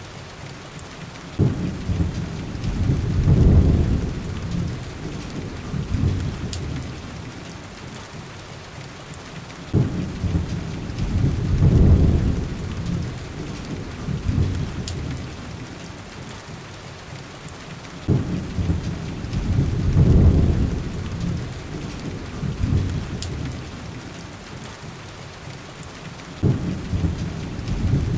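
Heavy rain on window glass with low rolling thunder. Four rumbles about eight seconds apart each start suddenly, swell, then fade.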